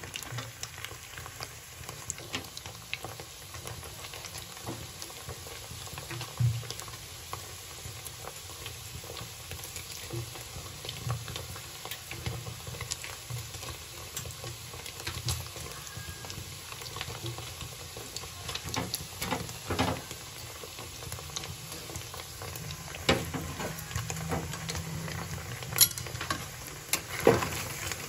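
Paneer cubes sizzling as they shallow-fry in oil in a metal kadai, with occasional scrapes and taps of a metal spatula against the pan; a few sharper taps come near the end.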